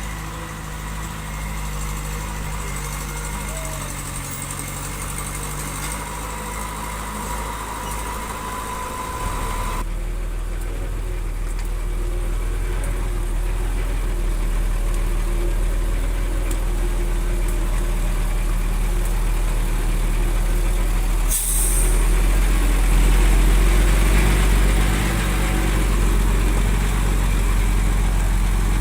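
Heavy diesel engine of construction machinery running under work, getting steadily louder and heavier. A thin steady whine stops about a third of the way in, and a short sharp hiss comes about two-thirds of the way in.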